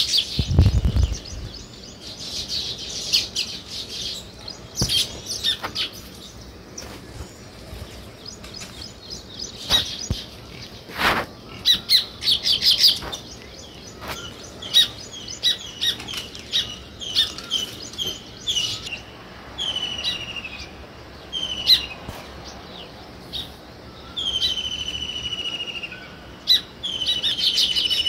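Small songbirds chirping in many quick, repeated cheeps, with a few longer trilled notes near the end.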